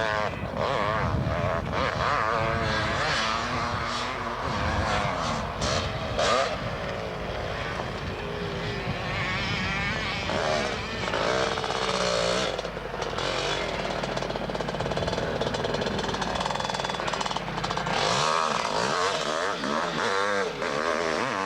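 Motocross motorcycle engine revving, its pitch rising and falling again and again.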